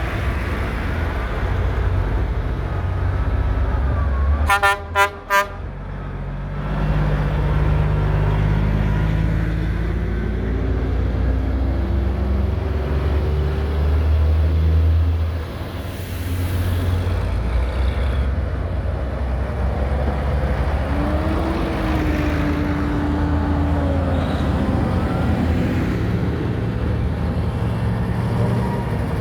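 Vintage tractor diesel engines running as tractors pass, with a vehicle horn tooting three short times about five seconds in.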